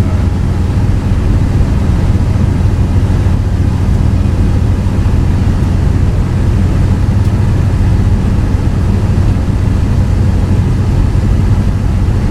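Car driving: a steady low rumble of engine and road noise, even throughout.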